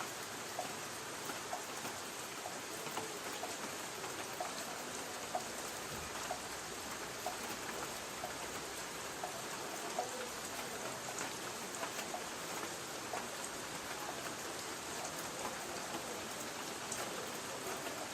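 Light rain falling on a tin roof: a steady hiss of rain with many small drop ticks, and a faint drip repeating about every half second to second.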